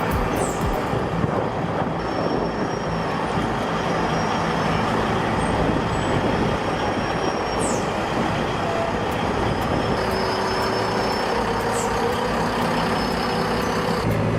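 Heavy truck running steadily: a dense, continuous engine and road noise, with a few brief high squeals.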